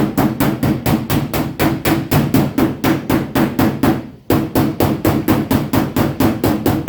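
Shrinking hammer tapping rapidly on the steel quarter panel of a Dodge Ram pickup, about five or six blows a second, with a brief pause about four seconds in. The blows ring on the sheet metal as a high spot that popped out is tapped back down to level the panel.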